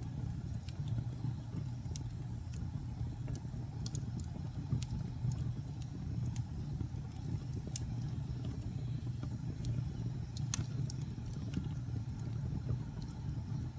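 Fireplace fire burning: a steady low rumble of the flames with scattered sharp crackles and pops, one louder pop about ten and a half seconds in.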